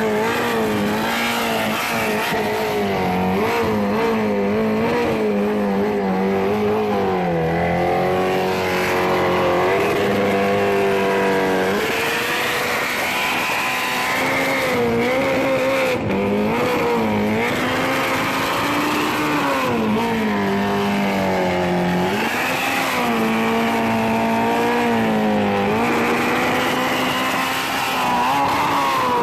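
Sport motorcycle engine revving up and down over and over, its pitch rising and falling in waves with no pause.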